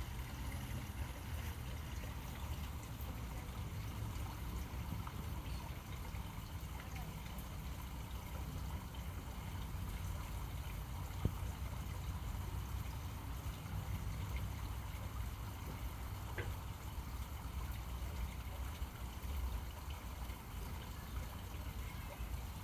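Steady outdoor ambience at a pond: a low rumble under a faint trickle of water, with a single sharp click about eleven seconds in.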